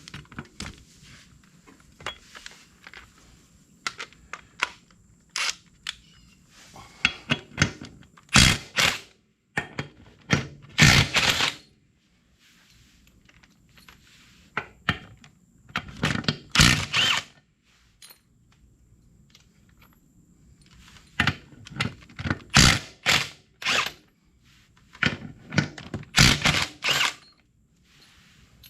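Impact wrench hammering at the lug nuts of a tractor's rear wheel in several bursts of about a second each, with quieter tool clatter between them.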